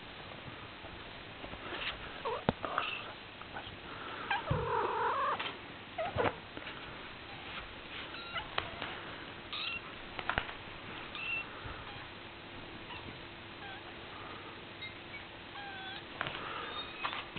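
Young kittens mewing in short, scattered calls, with one longer meow about four to five seconds in, among a few sharp clicks or knocks.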